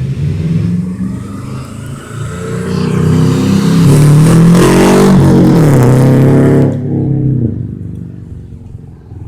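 Saab 9-2X flat-four engine revving through its exhaust: the revs climb from about two seconds in, hold high and loud for a few seconds, then drop away sharply as the throttle is released.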